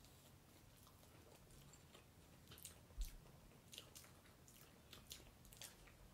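Faint chewing of soft, sugar-coated Peeps marshmallows by two people. Small, quiet mouth clicks are scattered through the second half.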